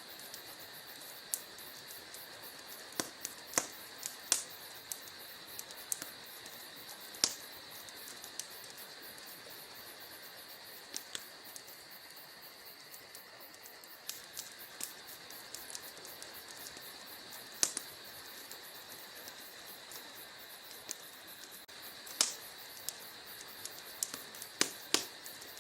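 Wood fire crackling in a fireplace: irregular sharp pops and snaps over a steady high hiss.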